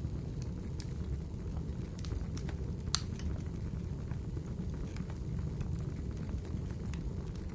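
Fireplace fire crackling with scattered sharp pops, one louder than the rest about three seconds in, over a steady low rush of rainfall.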